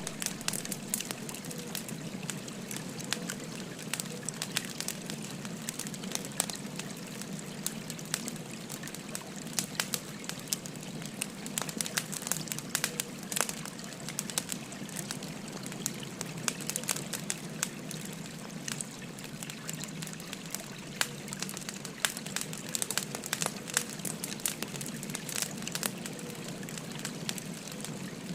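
Wood fire crackling with frequent sharp, irregular pops, over the steady rush of a babbling stream.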